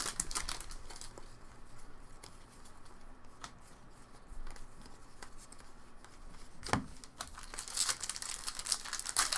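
Crinkling and tearing of foil trading-card pack wrappers as packs are opened and cards handled. The rustle comes at the start and again near the end, with a quieter stretch between, a couple of light clicks and a dull thump just before the seven-second mark.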